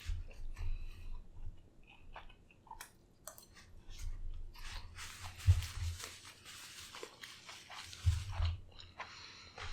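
A person chewing tender lamb shank close to the microphone, with irregular short wet mouth clicks and a few low bumps.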